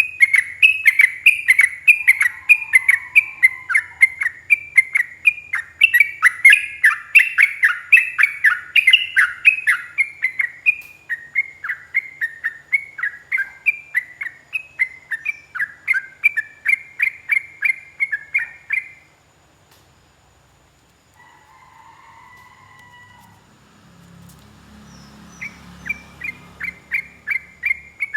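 Yellow-vented bulbul (trucukan) singing a long, fast run of repeated bubbly notes, the rolling 'ropel' song. It breaks off about two-thirds through, leaving a few faint calls, then starts again near the end.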